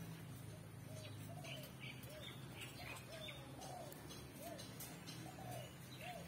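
Green pigeon (punai daun) calling: a run of short, rising-and-falling whistled notes, about two a second, over a steady low hum.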